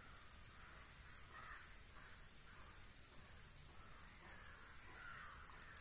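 A small bird repeating a faint, high, thin down-slurred call every second or so.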